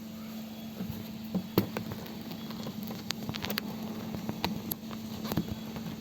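Ford Thunderbird engine idling steadily, with scattered clicks and knocks of handling close by, the sharpest about a second and a half in.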